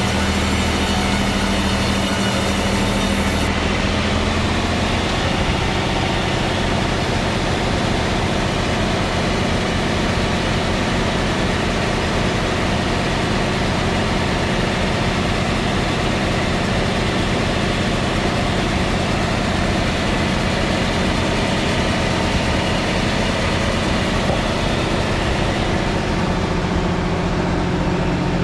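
A machine motor running steadily with a constant, even drone that does not change in speed or load.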